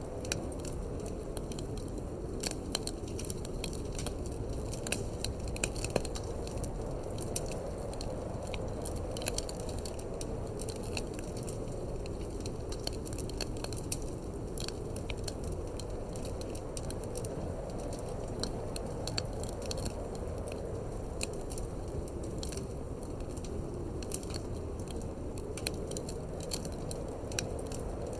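Wood fire crackling in a fireplace, with frequent small pops and snaps, over a steady low rush of wind that swells and eases slowly.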